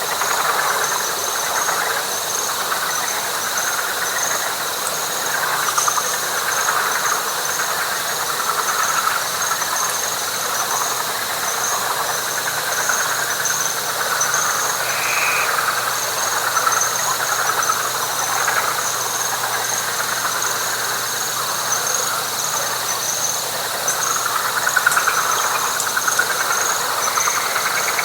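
Night chorus of frogs calling densely and continuously, layered over a steady high-pitched whine and a higher trill that pulses evenly. A single short higher note sounds about halfway through.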